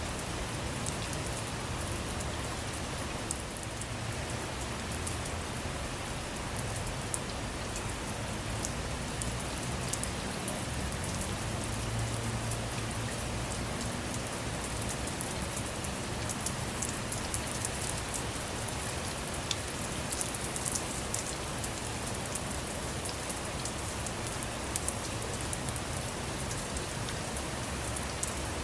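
Steady rain falling on a car, with many separate drops ticking sharply over a constant hiss.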